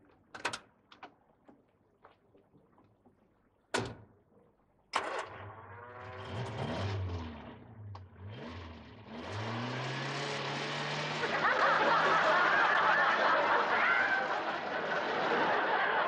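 A few light clicks and a sharp knock like a car door shutting, then about five seconds in a car engine starts and revs up and down before running on steadily and louder.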